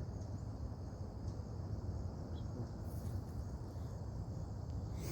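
Outdoor ambience: a steady high-pitched chorus of insects such as crickets over a constant low rumble.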